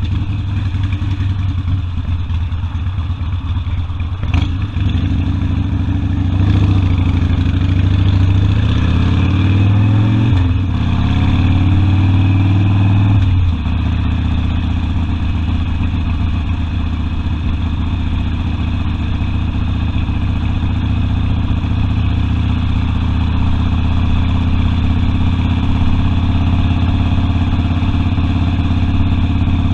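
Harley-Davidson Sportster V-twin engine under way: the revs climb from about six seconds in, dip briefly near ten seconds, climb again, then fall back suddenly around thirteen seconds to a steady cruising note. A single sharp click comes about four seconds in.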